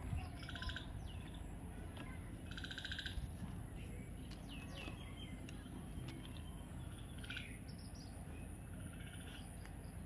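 Bird chirps and short trilled calls, several times, with a few quick downward-sliding notes around the middle.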